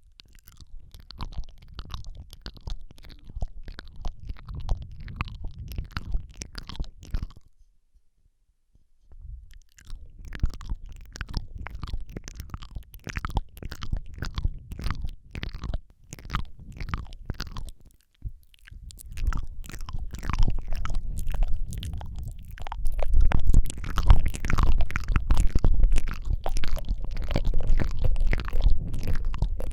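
ASMR mouth sounds close on a microphone: wet lip smacks, tongue clicks and licking noises in quick succession. They pause briefly twice and grow louder and bassier in the second half.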